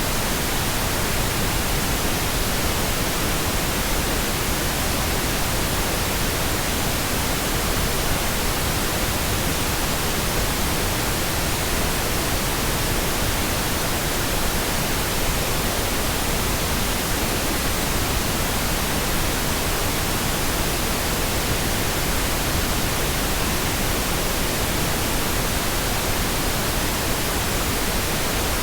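Steady, uninterrupted pink noise: an even hiss spread across all pitches, with no change in level.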